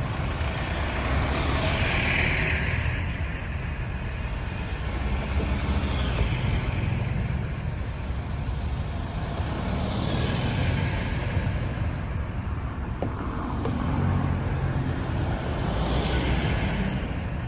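Road traffic: a steady low rumble of engines and tyres, with vehicles passing one after another, about four times, each swelling up and then fading away.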